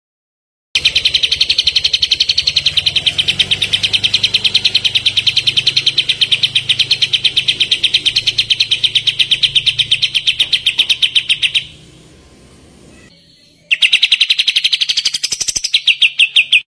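Kapas tembak bird giving its rapid machine-gun-like trill, about eight sharp notes a second in one long run. It breaks off for about two seconds and then starts again, sweeping briefly higher near the end.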